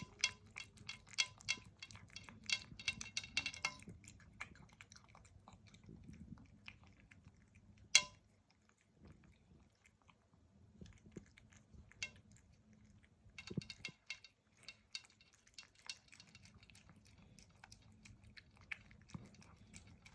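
Tabby cat eating pumpkin with wet food from a dish: quick, soft, wet chewing and licking clicks that come in runs, with a pause partway through. There is a single sharp click about eight seconds in.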